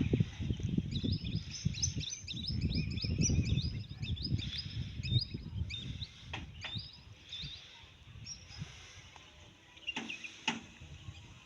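Birds chirping: many short, high, repeated notes overlapping, busiest in the first half and thinning out later, over low background noise. Two sharp clicks near the end.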